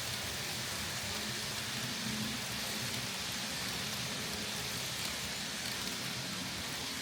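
Kato N scale model train running along the layout track: a steady, even hiss with a faint low hum from the locomotive's small motor.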